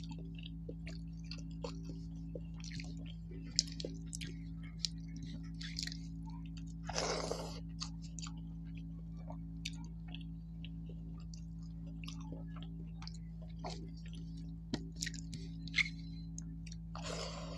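Close-miked chewing of a mouthful of rice and fish: soft wet smacks and clicks from the mouth, with two longer rushes of noise, one about seven seconds in and one near the end. A steady low hum runs underneath.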